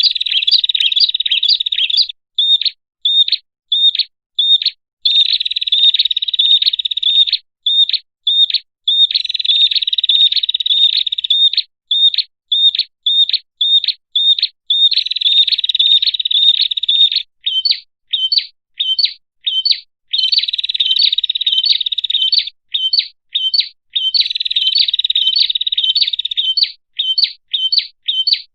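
Prinia (prenjak) lure call: sharp high chips repeated about twice a second, alternating every few seconds with rapid trilled runs of two to three seconds.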